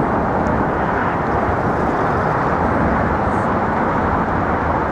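Steady, loud roar of traffic on the bridge.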